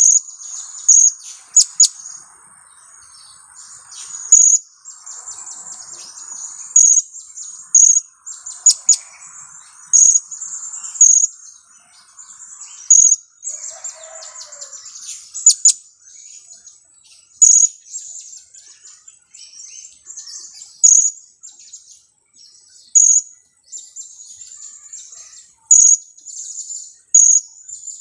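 Young blue-crowned hanging parrot (serindit), about two weeks old, calling kiak-kiak: short, sharp, high-pitched chirps repeated every second or two, with a softer, lower twittering through the first half.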